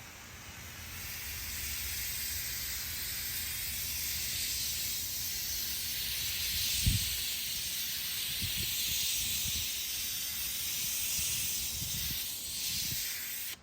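Water hissing steadily from a pressure-washer wand with the machine switched off, at only hose pressure, spraying onto wooden fence boards. It starts just after the beginning and cuts off suddenly at the end, with one low thump about halfway through.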